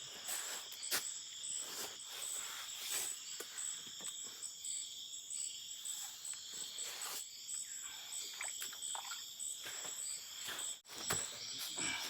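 Steady high-pitched chorus of tropical forest insects, crickets and cicadas buzzing and trilling together, with scattered sharp clicks and knocks over it. The sound drops out for an instant near the end.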